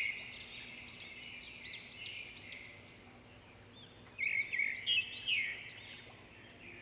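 Birds chirping and singing: many short rising-and-falling notes, with a louder run of calls about four seconds in.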